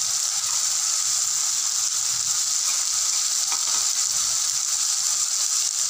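Chopped onions and tomatoes sizzling steadily in hot oil in a kadhai, a constant even hiss of frying.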